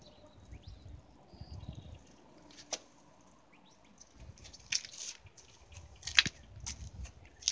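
Footsteps crunching in snow: a few sharp crunches about three, five and six seconds in, over a faint low rumble.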